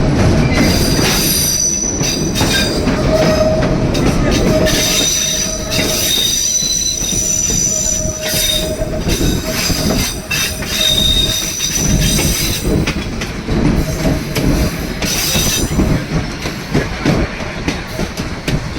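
Narrow-gauge train of the White Pass & Yukon Route running on the track, a steady low rumble with the steel wheels squealing against the rails on and off, high thin squeals that come and go and fade toward the end.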